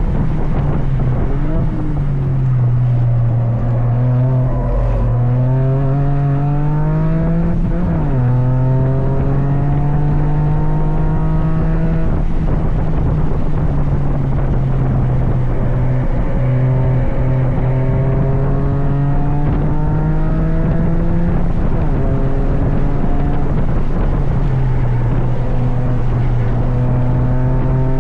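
Toyota GR Yaris's turbocharged 1.6-litre three-cylinder engine being driven hard on track. The revs climb through the gears, dropping sharply at each upshift, including one about eight seconds in.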